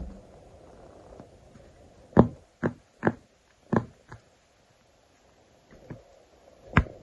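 A handful of short, irregular taps and clicks from stickers being handled and pressed down onto paper, about seven in all, starting about two seconds in.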